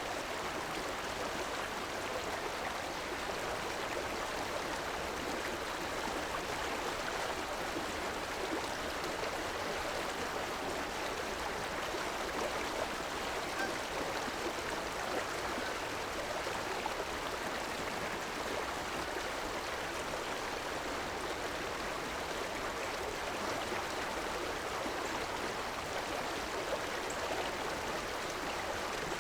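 River water flowing over rocks: a steady, even rush with gurgling.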